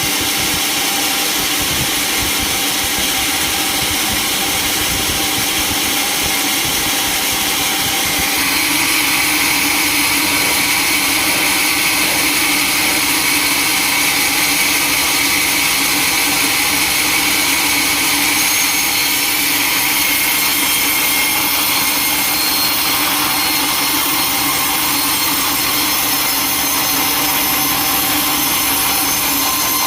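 Sawmill saw running steadily, a continuous machine noise with a high whine. About eight seconds in it grows slightly louder and the whine sharpens, as if the blade takes on more load in the wood.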